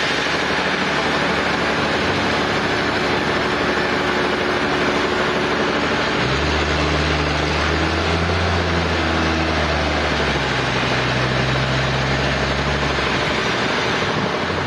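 Sawmill machinery running steadily with a dense noise, joined by a deep engine hum about six seconds in that drops away near thirteen seconds.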